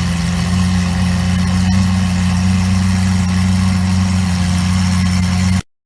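Car engine idling with a steady, even drone that does not change in pitch. It cuts off abruptly near the end.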